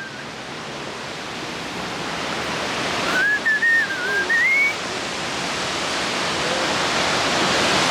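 Steady rushing of falling water from a waterfall, growing slowly louder. A short wavering whistle sounds about three seconds in and lasts under two seconds.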